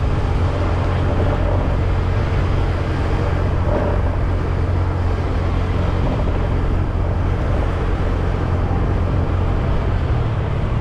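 Motorcycle riding along a road, its engine and the road noise running steadily at an even level.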